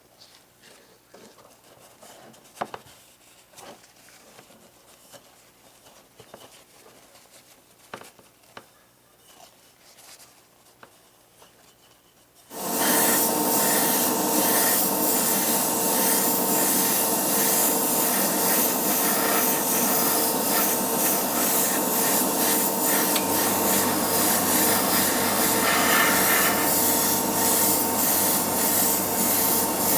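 Light handling clicks, then about twelve seconds in a small electric tool switches on suddenly and runs steadily with a loud hiss over its motor hum; a lower hum joins near the end.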